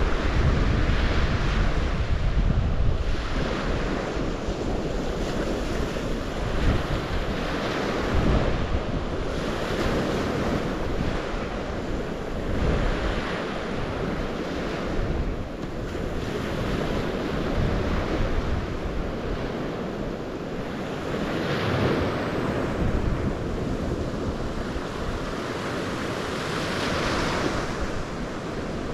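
Waves on the St. Lawrence shore washing in and surging every few seconds, with wind buffeting the microphone in an uneven low rumble.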